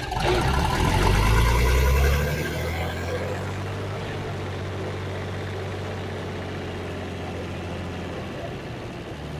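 John Deere 55 combine's engine, just started after sitting for years. It runs louder and heavier for about the first two seconds, then settles into a steady run.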